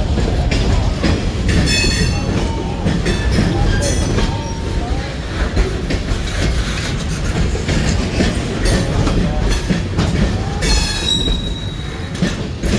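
Train rolling past with a steady heavy rumble of wheels on rail, broken twice by brief high-pitched wheel squeal, about two seconds in and again near eleven seconds.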